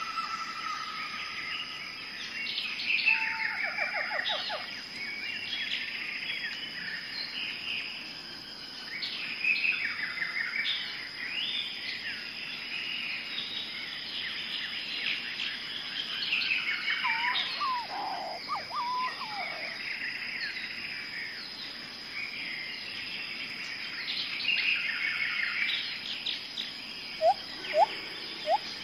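Several songbirds chirping and trilling in a busy, overlapping chorus, over a faint steady high tone. A few sharp, short rising chirps stand out near the end.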